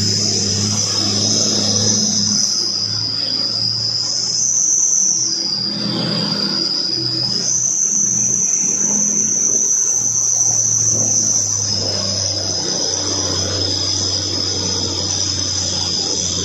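Heavy truck engine running with a low, steady hum, under a loud, continuous high-pitched shrill whine that jumps up or down in pitch several times.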